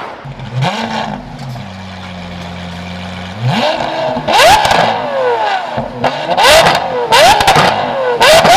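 Lamborghini Aventador SVJ's 6.5-litre V12 with a Gintani exhaust fires up and settles into idle, then is blipped in quick, sharp revs from about three and a half seconds in. Loud cracks and pops from the exhaust come at the peaks of the revs.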